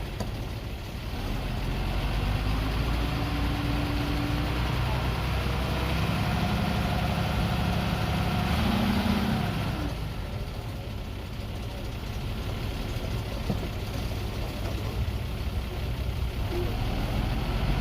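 Dump truck's diesel engine running under load, its note rising around the middle and dropping back about ten seconds in.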